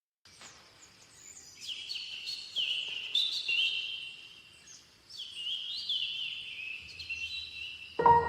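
Birds chirping and trilling in two runs of song with a short lull between them. Just before the end, a steady sustained chord with bass comes in as the music starts.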